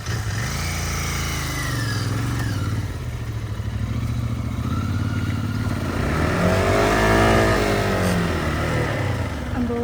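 Motorcycle engine revving up and dropping back, twice, as the bike is ridden over a muddy off-road track.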